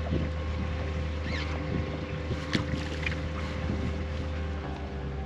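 Boat motor running with a steady low hum. There are a few short high chirps about a second in and a sharp click about two and a half seconds in.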